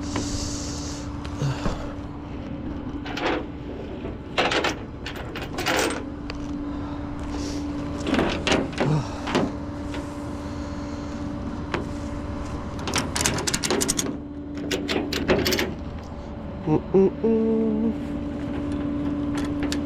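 Tow truck engine running steadily, with a string of sharp metallic clanks and knocks on and off throughout.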